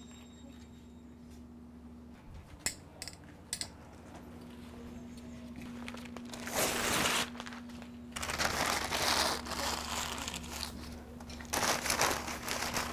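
Crumpling and rustling of paper kindling being handled to start a wood fire, in irregular bursts, with a few sharp clicks about two seconds in. A faint steady hum runs underneath.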